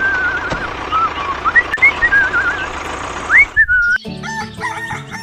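Warbling, swooping whistle-like chirps over a steady hiss. About four seconds in, background music cuts in.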